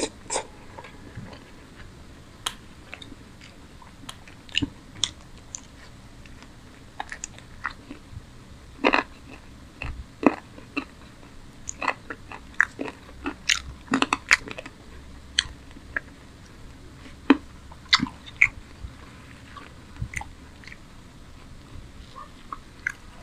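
Close-miked chewing and biting as a man eats chicken curry with paratha by hand: irregular wet mouth smacks and clicks, with some crunching.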